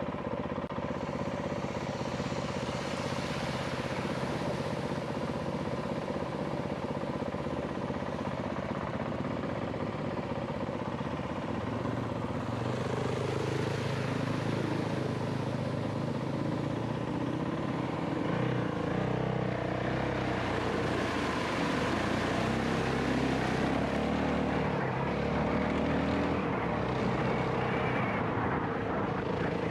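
450 cc single-cylinder dual-sport motorcycle engine running under way while ridden, its note rising and falling with the throttle about a third of the way in and again past the middle.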